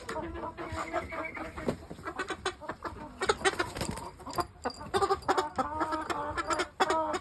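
Chickens clucking: many short calls repeating and overlapping, busier in the second half, with sharp clicks among them.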